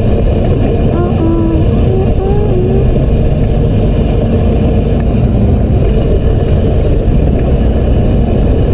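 Dirt bike engine running at a steady speed with a heavy low rumble, and a voice briefly about a second in.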